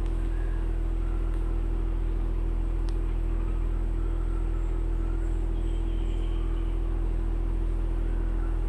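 Steady machine drone with a constant low hum and a steady mid-pitched tone, unchanging throughout.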